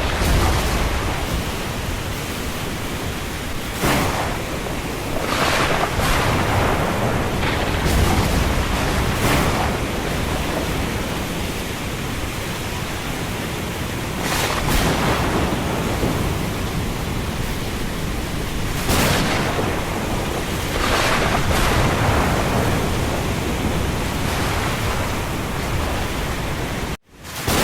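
Thunderstorm and windstorm: a steady rush of wind and rain, with gusts swelling and fading every few seconds and low rumbling. Near the end the sound cuts out abruptly for a moment and comes back.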